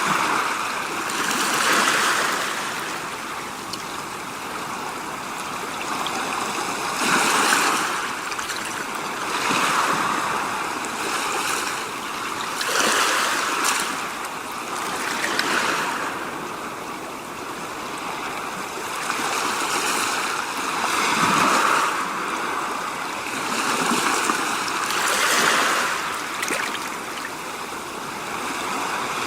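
A rushing noise without any clear pitch that swells and fades about every two to three seconds.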